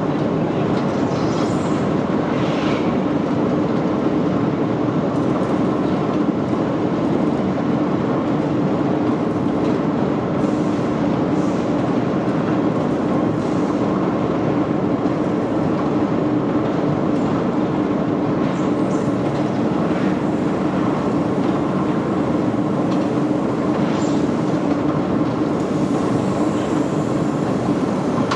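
Machinery running steadily, with a constant hum and a few faint clicks and knocks scattered through it.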